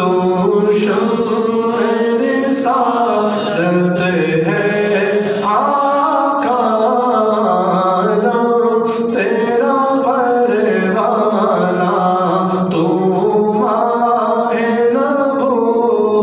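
A voice singing an Urdu naat (devotional song) with long, wavering held notes, steady and unbroken.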